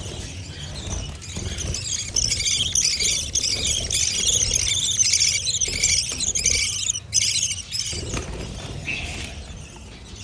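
Many small caged birds chirping and chattering at once in a dense, high-pitched chorus. It swells about two seconds in and thins out near the end, with a low rumble underneath.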